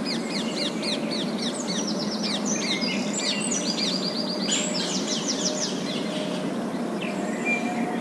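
Parakeets chattering in fast runs of short, high falling chirps, dense for about six seconds and then thinning to a few calls, over a steady background hiss.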